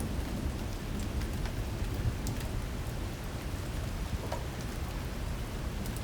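Heavy rain falling steadily in a storm, with scattered drops ticking sharply and a constant low rumble underneath.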